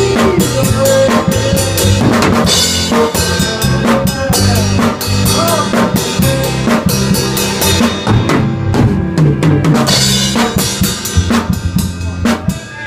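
A small band playing live: a drum kit with kick, snare and rimshots driving over steady bass and guitar chords. The tempo is rushing, too fast for the song, and the full band drops out near the end.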